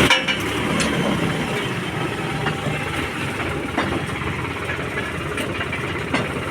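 Tractor diesel engine running steadily, with a few short sharp knocks over it.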